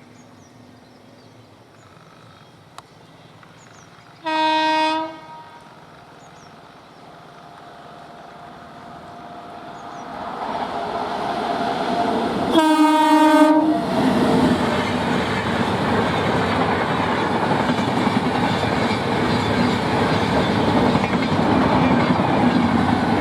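An Indian Railways express train approaching and running past at speed: its locomotive horn sounds twice, a blast of just under a second and then another of about a second as the train draws level. The rumble and wheel clatter of the passing coaches then stay loud and steady.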